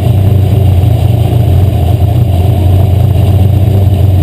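Asphalt modified race car engine running loud and steady at speed.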